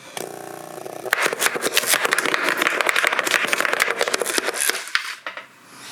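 Handheld power tool with a diamond grinding bit spinning up, then chattering and grinding against the stuck metal of an engine mount for about four seconds before it dies away near the end.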